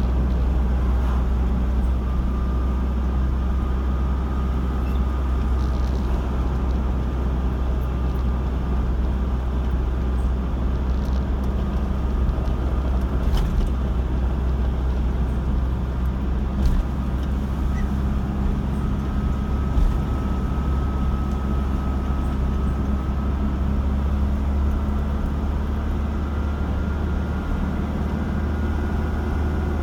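Car driving on a road: a steady, low rumble of engine and tyre noise with a faint steady whine.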